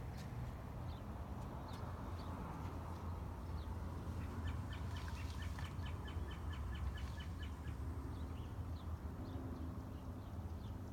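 A songbird chirping outdoors. Midway it sings a run of short, evenly spaced notes at about five a second, with scattered single chirps around it. A steady low rumble runs underneath.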